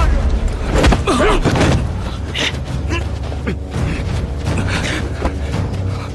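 Film fight sound effects: a run of sharp knocks, clashes and thuds over a dramatic music score.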